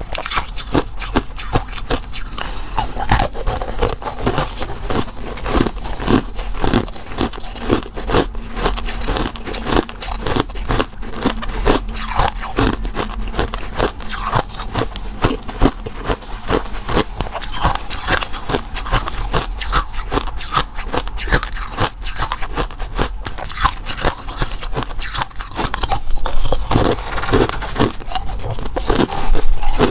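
Close-up biting and chewing of firm, crunchy food: a dense run of crisp crunches and scrapes, a little louder near the end.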